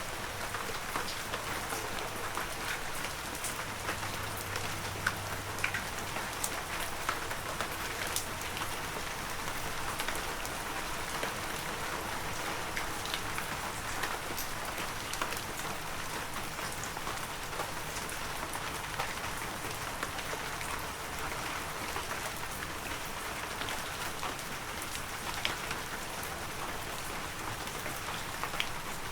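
Heavy rain falling steadily: a dense, even hiss with many individual drops ticking sharply through it.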